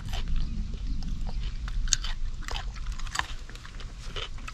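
Someone chewing popcorn close to the microphone: irregular crunches, a few a second, over a low steady hum.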